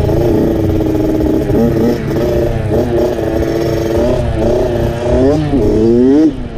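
Dirt bike engine running while being ridden, its pitch rising and falling with the throttle, with a few quick revs climbing near the end.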